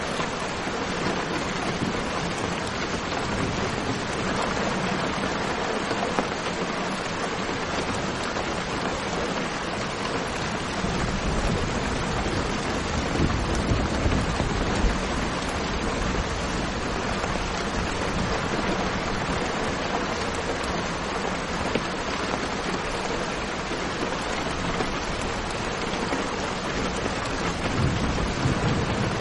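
Steady, dense rainfall, an even hiss of many drops. Low rumbles of distant thunder swell about halfway through and again near the end.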